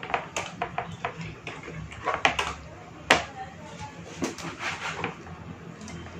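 Irregular sharp knocks and clicks, several a second, the loudest about three seconds in.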